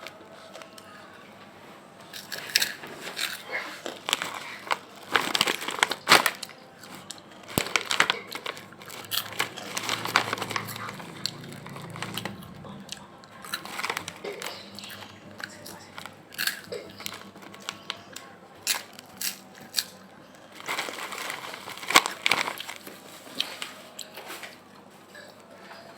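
Crispy snack being bitten and chewed close to the microphone: irregular clusters of sharp crunches and crackles.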